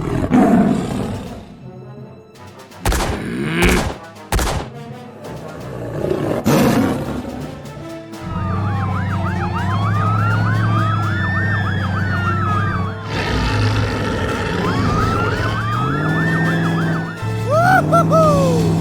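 A string of sudden hits and sweeps, then a wailing siren rising and falling over a steady engine hum; near the end the hum climbs in pitch as the engine revs.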